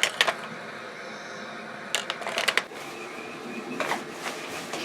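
Light clatter of toy pots and utensils being handled: a few short clicks and rattles, in clusters at the start, about two seconds in, and near the end.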